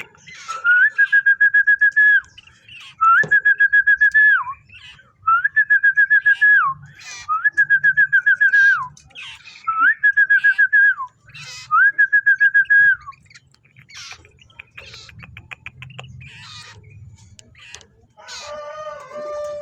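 Common iora (cipoh) singing: six long trilled whistles, each held level and dropping in pitch at the end, about one every two seconds, then fainter scattered calls.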